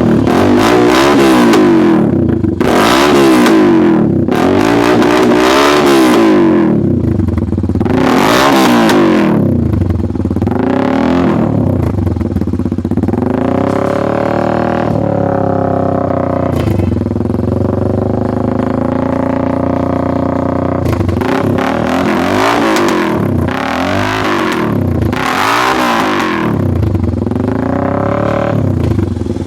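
Motorcycle with an Akrapovic dual-barrel aftermarket exhaust being revved in repeated blips, engine speed climbing and dropping back each time. It settles to a steadier, lower run for a few seconds in the middle.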